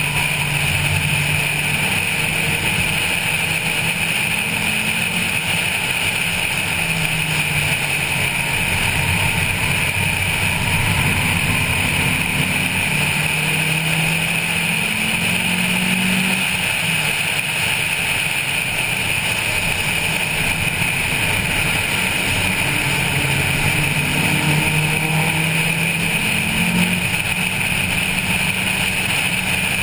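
Honda Civic 1.5 engine pulling hard, its note climbing through the revs and dropping back at an upshift about halfway through and again near the end, under steady wind rush on the roof-mounted camera.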